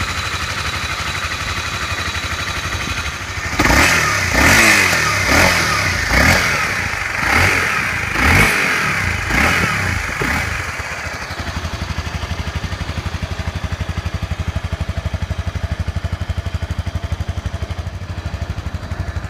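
Honda CRF250L's single-cylinder four-stroke engine, with 150,000 km on it, idling, then revved in a series of quick throttle blips from about four seconds in to about ten seconds in, each rising and falling in pitch, before settling back to a steady idle.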